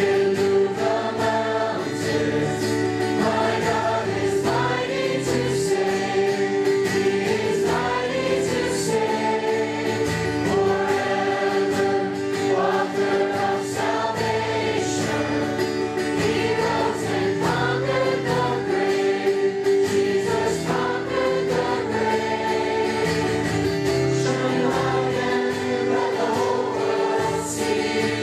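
Choir singing a gospel-style Christian song over instrumental backing.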